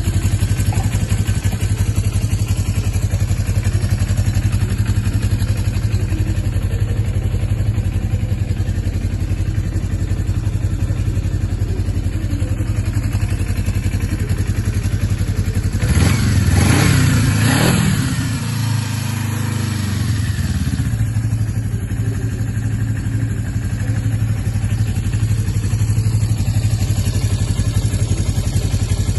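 1980 Yamaha XS250's air-cooled parallel-twin engine idling steadily. About sixteen seconds in it is revved once: the pitch climbs and falls back over a couple of seconds, then it settles to idle again.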